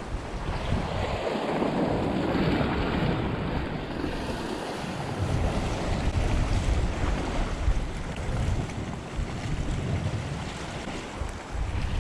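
Strong, gusty wind buffeting the microphone over the wash of sea waves surging against a rocky shore.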